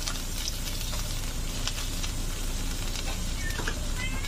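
Battered uray (wild spiny amaranth) leaves deep-frying in hot oil in a wok: a steady sizzle with small crackles, stirred with a spatula. Near the end there are a couple of short high-pitched calls.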